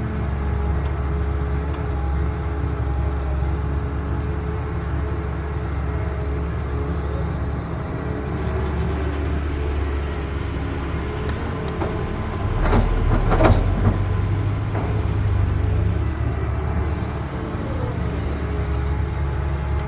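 Heavy diesel construction-machine engine running steadily at work. About twelve seconds in it grows louder and deeper for a few seconds, with a few sharp knocks.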